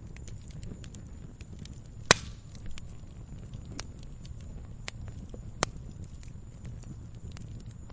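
Firewood burning and crackling: a steady low rumble with scattered small crackles and two loud sharp pops, about two seconds in and again past five seconds.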